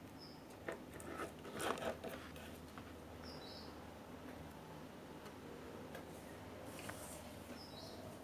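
Faint rustling and small clicks of parts being handled at a repair bench, with three short high chirps spaced a few seconds apart over a low steady background.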